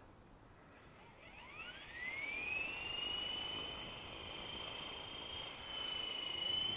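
Brushless electric motor of a WLtoys V950 RC helicopter spooling up: after a quiet second, a whine rises quickly in pitch over about a second and a half, then holds steady at a high pitch.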